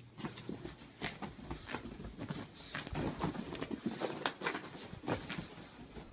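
Small dog scrabbling and scampering about, a steady run of soft paw taps and rustles.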